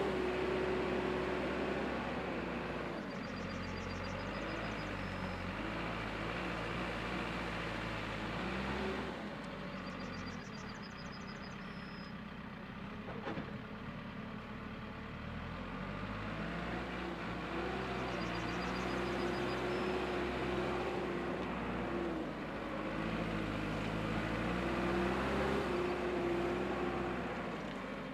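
A vehicle engine runs steadily, its pitch stepping up and down now and then. Short bursts of fast high ticking come three times.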